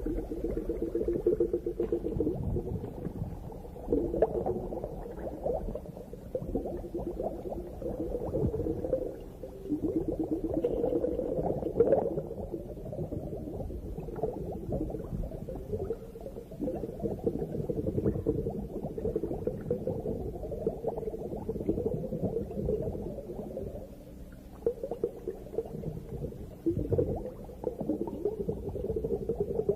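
Underwater bubbling from a scuba diver's regulator exhaust, surging and easing every few seconds with each breath. The bubbling is a low, rumbling sound.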